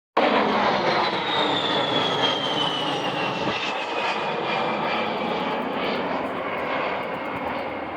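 A-10 Thunderbolt II's twin TF34 turbofan engines passing, a dense rushing noise with a high whine that slowly falls in pitch as the jet goes by and fades a little.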